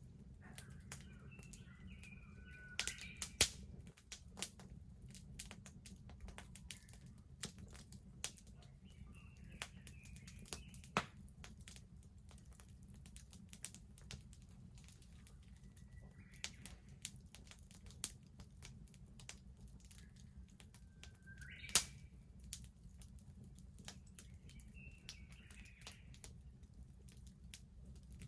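Wood bonfire crackling with irregular sharp pops, the loudest about three and a half seconds in and again near 22 seconds. Small birds chirp briefly now and then in the background over a steady low rumble.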